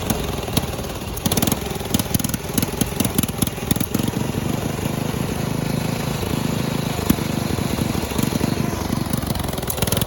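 Small single-cylinder lawnmower engine running hard and unevenly, its firing pulses irregular with occasional sharper pops.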